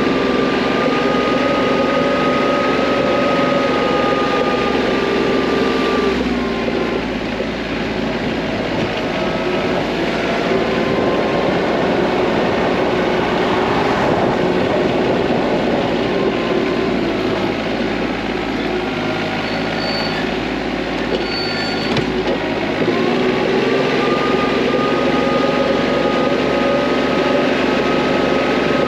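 TYM T25 compact tractor's diesel engine running steadily under work. Its speed drops about a quarter of the way in and climbs back up again near the end.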